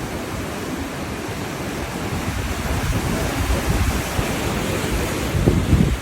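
Wind buffeting the microphone over the steady wash of sea surf, the rumble gusting stronger through the second half and peaking just before the end.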